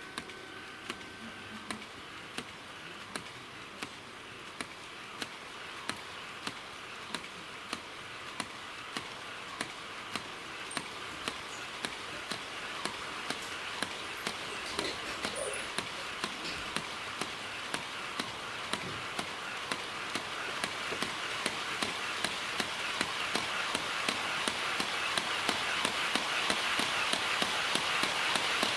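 HO-scale model freight train of two-axle wagons running on track, its wheels clicking over the rail joints in a steady rhythm over a rolling rumble, growing louder throughout.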